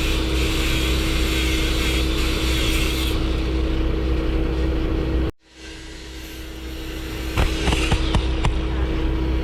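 Steady vehicle engine drone with a constant hum. It cuts out abruptly about five seconds in, swells back, and a few sharp clicks follow near the end.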